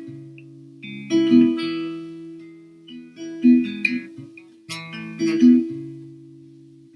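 Solo guitar playing a slow introduction: a chord is struck about every two seconds and left to ring and fade.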